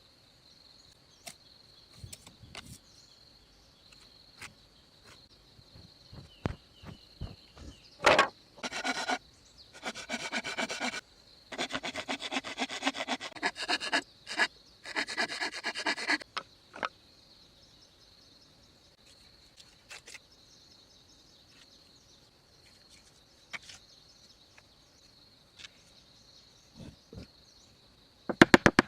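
Wood being sawn or rasped by hand in several bursts of quick strokes, with scattered knocks between them and a quick run of sharp clicks near the end, over a steady high insect drone.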